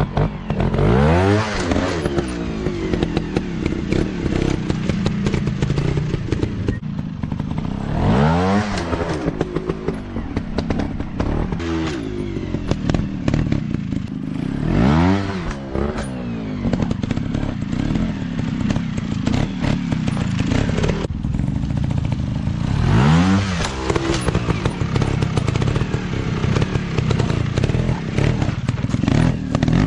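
Dirt bike engines running hard, revving sharply up and dropping back off in repeated surges a few seconds apart.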